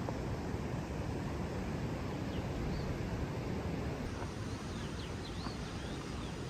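Steady outdoor rumble, strongest at the low end, with a few faint, high bird chirps: a couple about two and a half seconds in and a small cluster around five seconds in.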